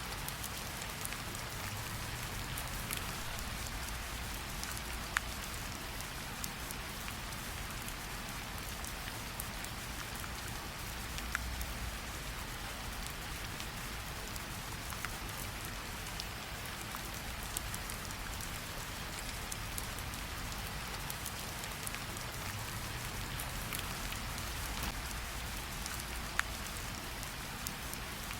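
Steady gentle rain falling on tree leaves, a soft even patter with scattered sharper drips from the leaves, a few louder single drops standing out now and then.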